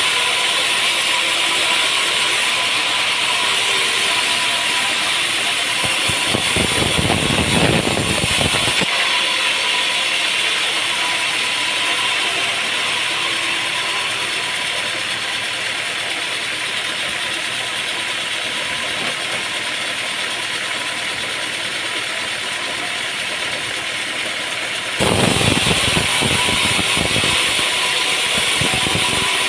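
Sawmill machinery running steadily with a hissing mechanical noise, with stretches of rumbling and rattling about six seconds in and again from about 25 seconds in.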